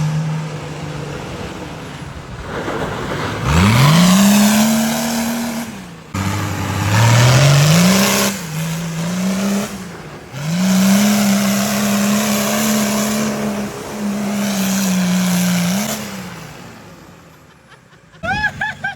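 Vehicle engine revving hard in three long pulls: each time the pitch climbs quickly, holds high for a few seconds and then drops. The engine dies away near the end.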